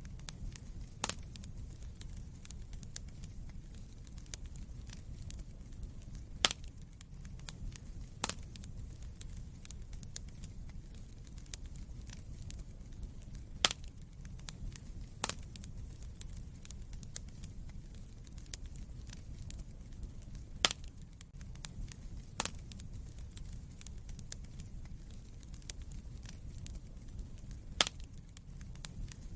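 Fireplace fire crackling: a steady low rumble with many small ticks and a sharper, louder pop every few seconds.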